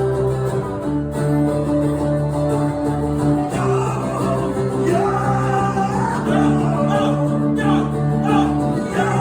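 Live acoustic band music: acoustic guitar chords ringing steadily, with a voice singing from about four seconds in.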